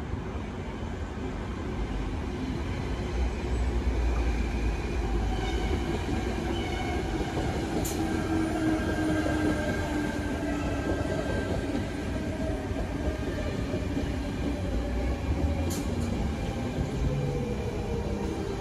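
A double-deck electric suburban train running past close by: a steady rumble of wheels on rail under the whine of its traction motors, which slowly falls in pitch and then climbs again near the end. Two brief sharp clicks come about halfway through and again near the end.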